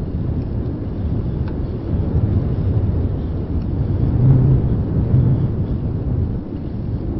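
Wind buffeting the microphone of a handheld Zoom Q3 recorder on a moving bicycle, a steady low rumble that swells about four seconds in.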